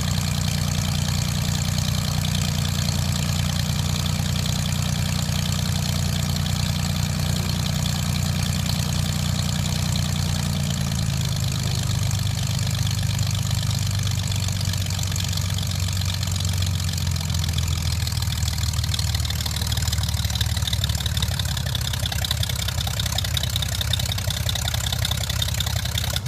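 Homebuilt airplane's engine running steadily, its pitch dropping slightly about eleven seconds in.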